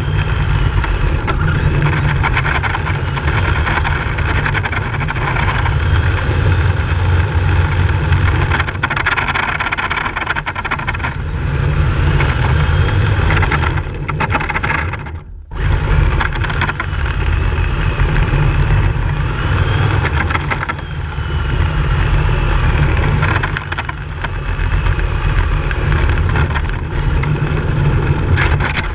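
Radio-controlled drift car running, its motor whine rising and falling in pitch over a dense, loud rumble, with a brief break about halfway through.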